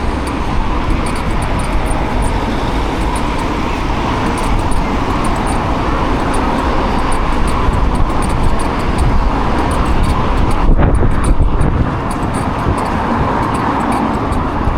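Steady road traffic noise from cars on the road around a moving bike.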